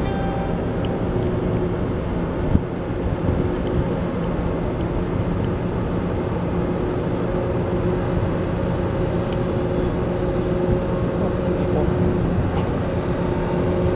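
A steady low engine drone with a few held tones, and one short knock about two and a half seconds in.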